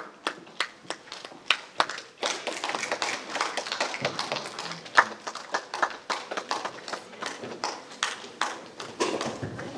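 Scattered audience applause: a few separate claps at first, thickening into steady clapping after about two seconds.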